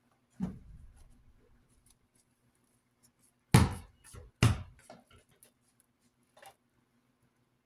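Protective plastic film being peeled off by hand in tugs: a soft knock about half a second in, then two loud, short rips about a second apart in the middle, with a few light handling clicks after.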